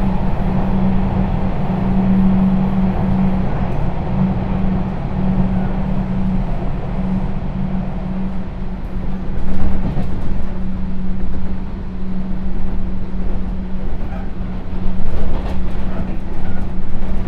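Sotetsu New 7000 series electric train with Hitachi GTO-thyristor VVVF inverter running along the line, heard from inside the car: a steady hum holding one pitch over the low rumble of the wheels on the rails. A few louder rumbling swells come about ten seconds in and again near the end.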